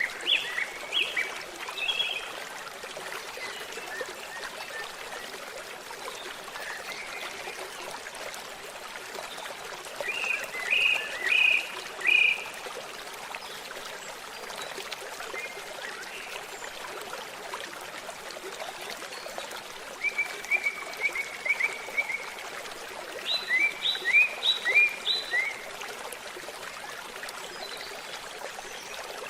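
A babbling stream runs steadily while a songbird sings several short phrases of quick chirps, a few seconds apart, one of them an even trill.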